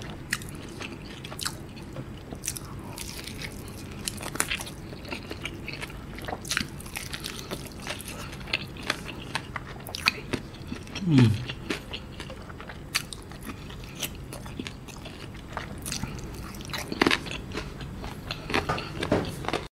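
Close-up chewing and biting of fried chicken coated in thick spicy sauce: crisp crunches and wet, sticky mouth clicks, with a short falling hum from the eater about eleven seconds in.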